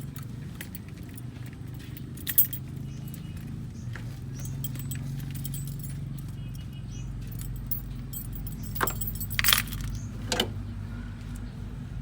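An engine running steadily under light metallic clinks and clatter, like tools or parts being handled. The loudest is a sharp clink about two and a half seconds in, then a few more between about nine and ten and a half seconds.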